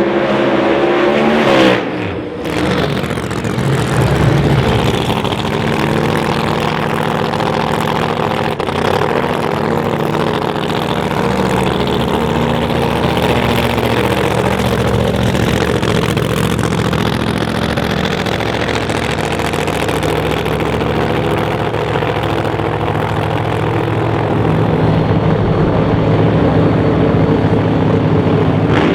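Drag-racing engines. One revs up and drops off sharply about two seconds in, then engines run steadily at a fairly constant pitch, starting to rise again at the very end.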